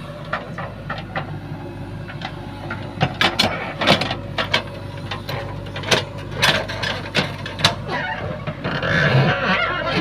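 JCB 3DX backhoe loader's diesel engine running steadily, with many sharp knocks and clanks scattered over it.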